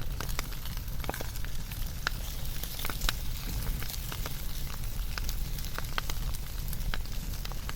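Wood fire burning, with sharp irregular crackles and pops over a steady low rumble.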